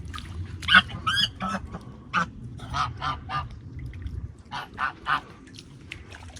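Waterfowl calling in a string of short calls, some rising and falling in pitch, bunched about three seconds in and again near the end.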